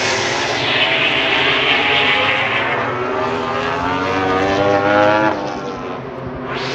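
MotoGP racing motorcycles passing at speed. Their engine note rises in pitch as they accelerate and falls away abruptly about five seconds in.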